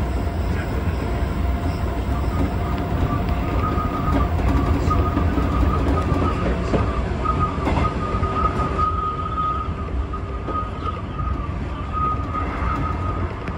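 JR West 201 series electric commuter train running at speed, heard from inside the front car: a steady rumble of wheels on rail, with a thin, steady high whine that grows stronger from about four seconds in.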